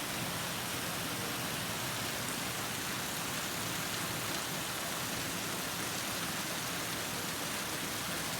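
Heavy rain pouring down steadily in an even hiss, falling on surfaces.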